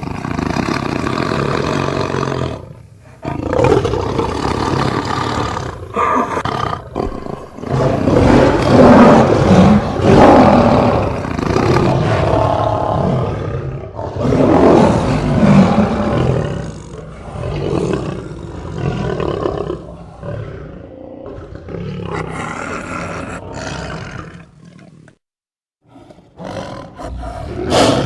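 A big cat roaring and growling: a series of loud, drawn-out roars with short pauses between them, broken by a brief silence near the end.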